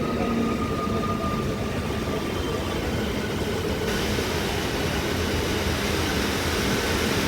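Indian Railways train running through, a steady rumble with a faint, slowly falling whine in the first two seconds. About four seconds in, the hiss suddenly gets louder.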